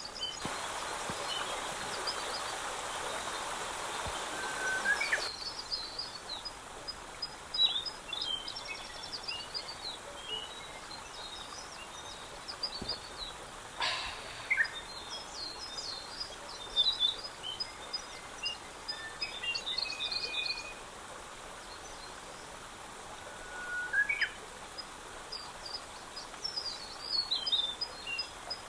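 Small songbirds singing and chirping, with short trills and high calls throughout. An even rushing hiss runs under them for the first five seconds and cuts off suddenly, and there is a single sharp click about halfway through.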